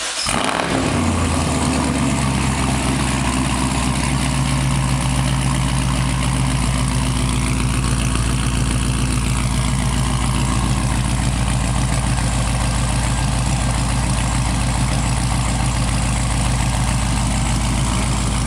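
2006 Pontiac GTO's 6.0-litre LS2 V8 idling through Kooks 1 3/4-inch headers, catted mid-pipes and a stock cat-back with the muffler deleted. It is just started: the idle settles about a second in, then holds steady.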